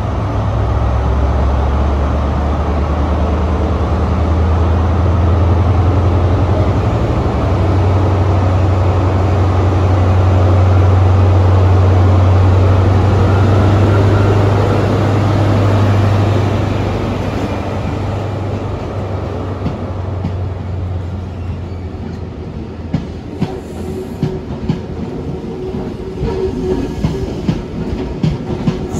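A train moving on the track: a steady low drone swells to its loudest about halfway through and then eases off. From about two-thirds in come sharp clicks of wheels over rail joints.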